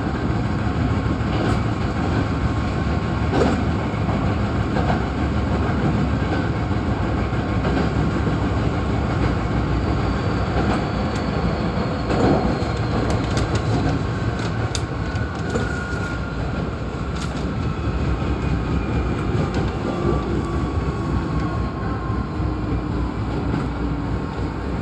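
Hankyu 8300-series electric train (set 8312F) running, heard from inside the car: steady running rumble with scattered wheel clicks over rail joints. In the second half a faint whine slides down in pitch as the train slows.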